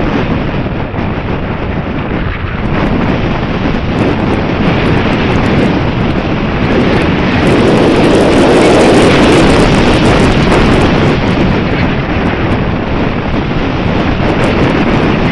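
Wind buffeting the microphone: a loud, steady rumble of gusting air that swells to its strongest a little past the middle.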